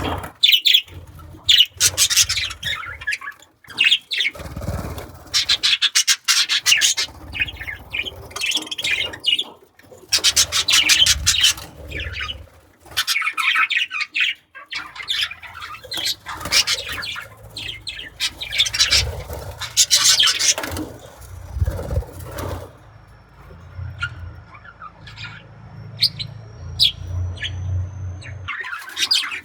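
Budgerigars chattering and chirping in repeated bursts of rapid warbling, with a low rumble underneath at times.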